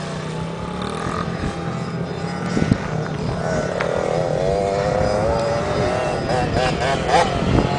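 Motocross dirt bike engines running, with one bike revving up and down in pitch through the second half.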